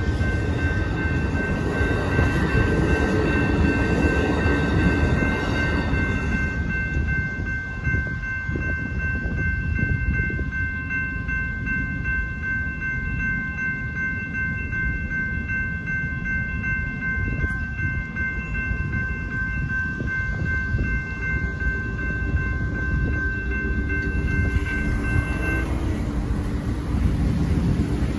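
Passenger rail cars rumble and clatter over the grade crossing for the first several seconds, fading as the last car clears. Electronic crossing bells ring steadily through the activation and stop shortly before the end as the gates lift, and car engines follow as traffic moves off.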